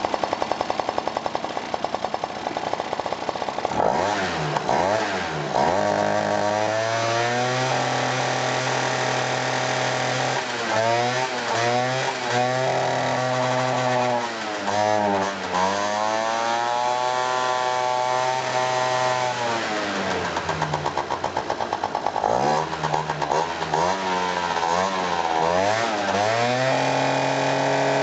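Honda Dio ZX scooter's 50cc two-stroke single-cylinder engine running: an even idle for about four seconds, then revved up and down over and over, with the revs held high for a few seconds at a time.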